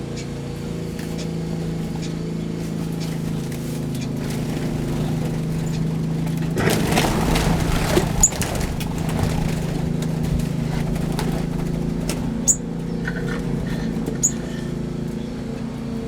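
Small aviary birds giving a few brief high chirps over a steady low mechanical hum, with a short rustle about seven seconds in.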